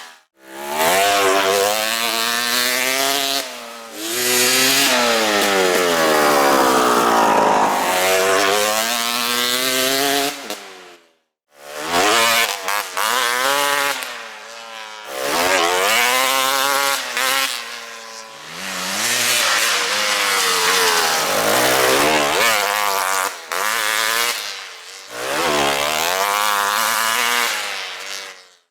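Two-stroke dirt bike engine fitted with an FMF Gnarly expansion chamber and Powercore 2 Shorty silencer, revving up and down over and over with a raspy tone. The sound breaks off twice, once just after the start and again about eleven seconds in.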